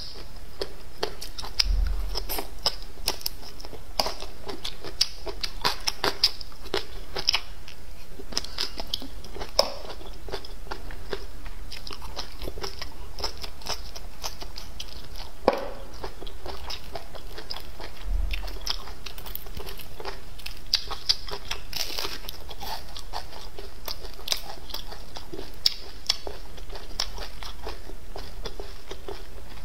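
Close-miked sounds of a person eating: steady chewing and biting, with many small crunches and mouth clicks.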